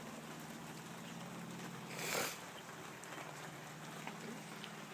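Heavy shower of rain falling steadily, with a low hum underneath and one brief louder whoosh about two seconds in.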